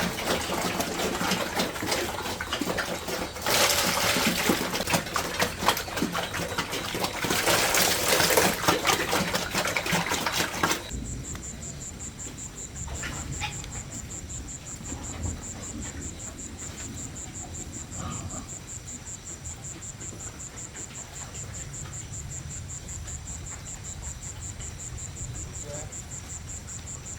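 A loud, dense crackling hiss, louder in two stretches, cuts off abruptly about eleven seconds in. After that, crickets trill steadily in a high, fast, even pulse.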